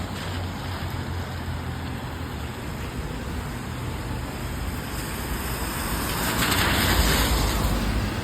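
Rain with a low rumble of city traffic, and a vehicle's tyres hissing past on the wet road, swelling and loudest about seven seconds in.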